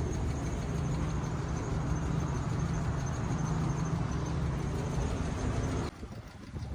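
A vehicle engine running steadily, with a faint thin high whine above it; the sound cuts off sharply about six seconds in, leaving a quieter rushing noise.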